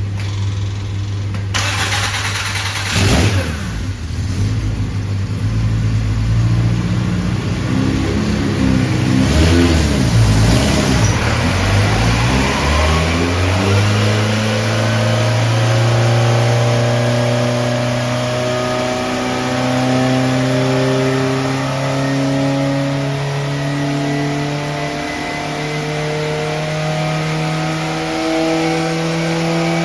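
750 Formula racing car's engine running on a rolling road. A sharp knock comes about three seconds in; the revs then waver up and down and, from about halfway, climb slowly and steadily in small steps under load.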